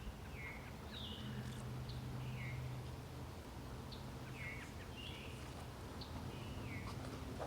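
A bird calling over and over, short chirping notes about once a second. A faint low hum sits beneath the calls for a couple of seconds near the start.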